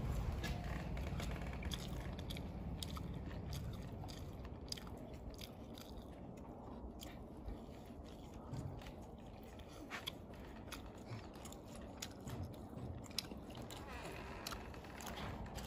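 People chewing and biting into food, close to the microphone, with scattered light clicks throughout.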